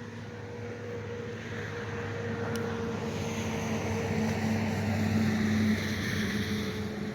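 An engine running steadily with an even hum, growing louder over several seconds.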